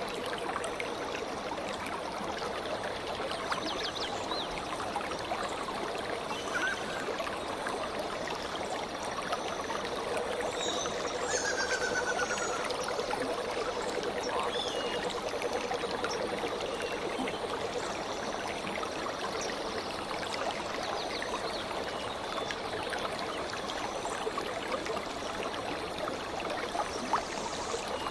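Stream water flowing and trickling steadily, with birds chirping faintly now and then over it.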